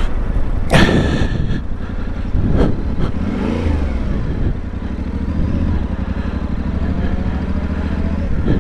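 Yamaha Ténéré 700's parallel-twin engine idling steadily, with a short louder sound over it about a second in.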